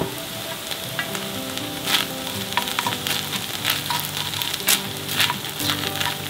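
Garlic-scape and pork fried rice sizzling in a frying pan while two wooden spoons stir and toss it, with frequent short clicks and scrapes of the spoons against the pan.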